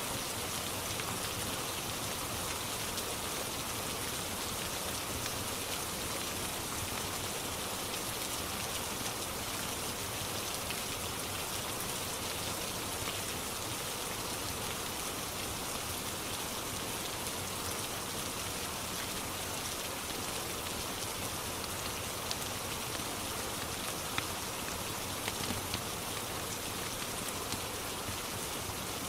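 Steady rain falling, an even hiss, with a few faint sharp clicks near the end.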